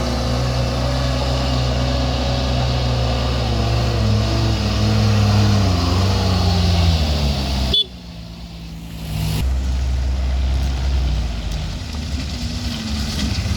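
A road vehicle's engine running under load, its pitch sagging over several seconds. About eight seconds in it cuts off abruptly to a quieter, lower engine sound that then builds back up.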